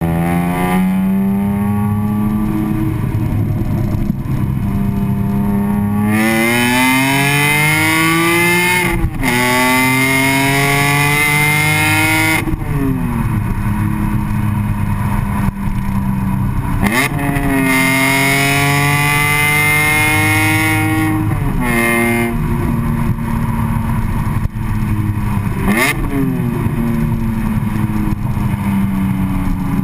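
BMW E46 M3's straight-six exhaust through an Agency Power muffler: a steady engine note, then hard pulls with the pitch rising, broken by a sudden drop about nine seconds in like a gear change, falling back to a steady note, another climb in pitch, and quick short blips near the end.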